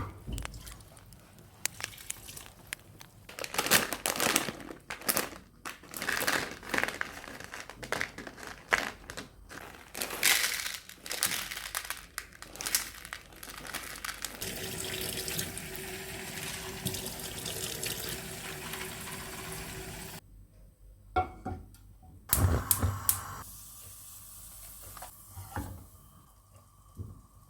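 Kitchen sink work: a run of knocks and clatter, then a tap running steadily for several seconds that is turned off suddenly, followed by a few more knocks.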